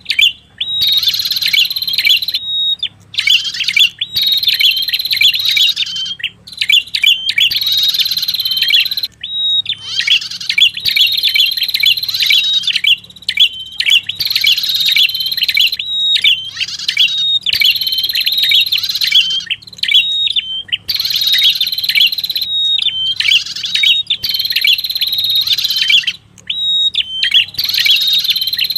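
Lure-call recording of a prenjak kepala merah singing: rapid, high chattering phrases a second or two long, repeated over and over with brief breaks between them.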